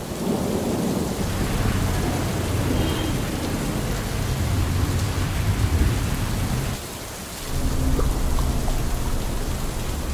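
Heavy rain falling onto standing water, with a low rumble of thunder beneath it. The sound dips briefly about seven seconds in, then carries on.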